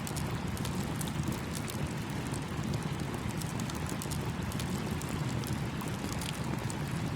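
Campfire crackling, with many small sharp pops, over the steady rush of a flowing stream.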